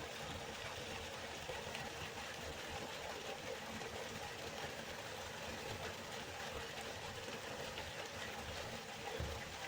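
River water flowing and rushing steadily, with a brief low bump about nine seconds in.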